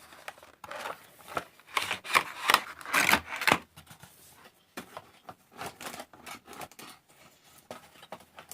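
Packaging of a hand cream gift set being torn open by hand: a quick run of scratchy rips and rustles, loudest a second and a half to three and a half seconds in, then sparser, softer handling of the package.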